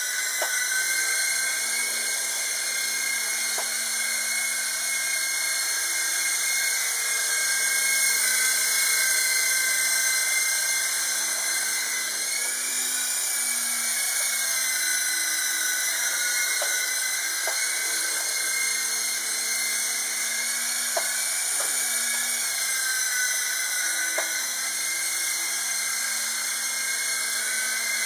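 Small electric motors of an S032G toy RC helicopter whining in flight. The whine rises in pitch about twelve seconds in and eases back, and it shifts again later with the throttle. A few faint light ticks come through.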